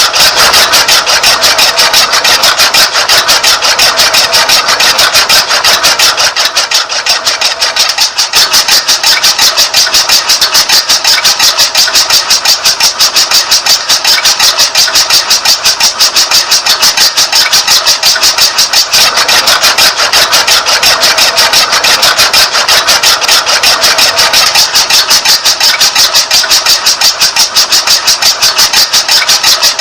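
Small electric motor driving a homemade model tractor chaff cutter, running steadily with a fast, even pulsing, briefly easing about seven seconds in.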